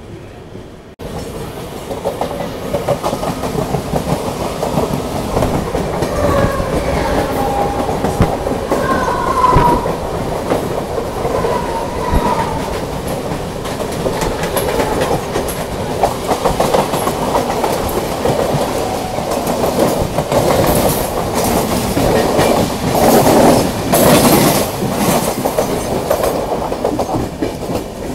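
Passenger train running at speed, heard from an open coach doorway: a steady rumble and clickety-clack of wheels on the rails, with a few short wheel squeals in the first half. A suburban electric local train rushes past close by on the next track.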